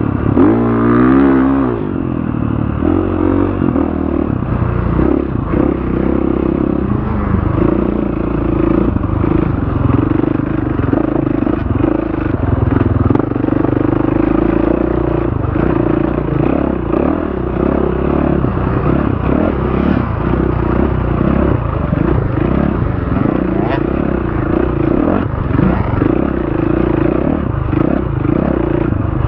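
Dirt bike engine revving up and down in the first couple of seconds, then running at a fairly steady pitch under way on the trail, with irregular knocks and rattles over the ground.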